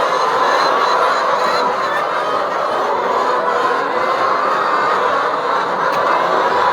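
A large flock of chickens calling together, a steady, dense chatter of many overlapping voices.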